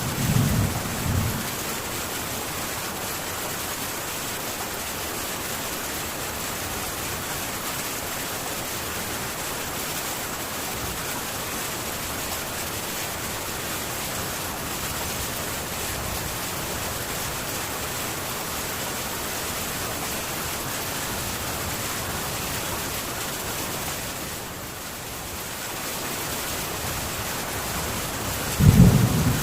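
Heavy rain falling on a metal tin roof, a steady even hiss. A low thunder rumble fades out about a second in, and another rumble of thunder starts near the end.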